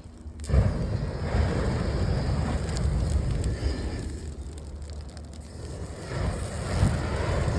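Exothermic Pulsefire handheld flamethrower firing in two long blasts: a rushing noise of burning fuel for about three and a half seconds, a lull, then a second blast near the end.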